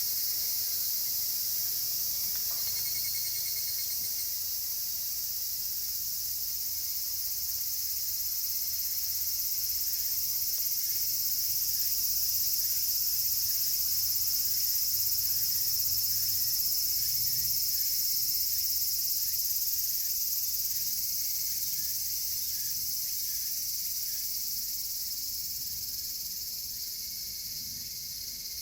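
Cicadas chorusing in a dense, steady, high-pitched drone that swells toward the middle and eases off near the end.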